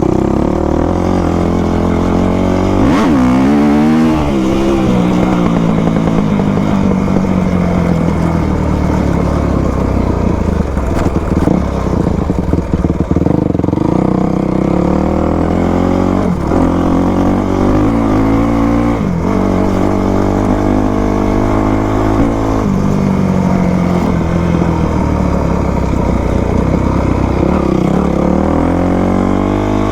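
Yamaha YZ250 two-stroke dirt bike engine running under way over rough ground. Its pitch rises and falls repeatedly as the throttle is opened and rolled off.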